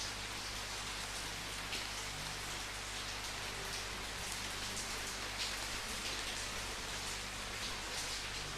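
Steady rain falling, an even hiss with individual drops pattering on a surface now and then.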